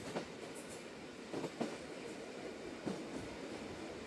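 Sagano trolley train running on its track, heard from its open car: a steady rumble broken by a few irregular knocks from the wheels and car.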